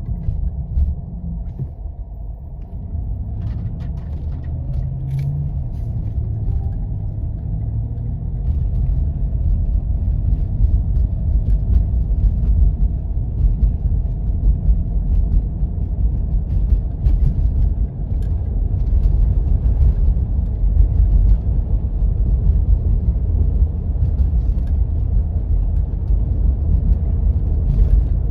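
A 4x4 vehicle driving on a snow-covered back road: a steady low rumble of engine and tyres, with scattered light ticks and rattles. It grows a little louder over the first several seconds, then holds steady.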